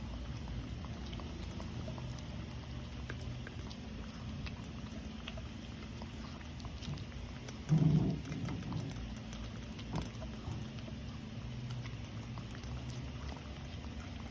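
Small dog eating from his bowl: scattered light clicks of chewing and crunching food. About halfway through comes one brief, louder low sound.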